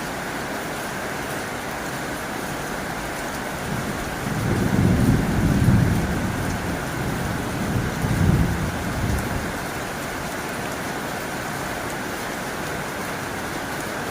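Heavy rain drumming steadily on a tin roof. About four seconds in, a low rumble of thunder builds, swells twice and fades out over about five seconds.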